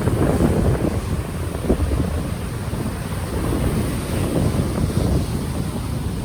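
Ocean waves washing on the shore, heavily overlaid by wind buffeting the unshielded microphone, which makes a low, rumbling noise.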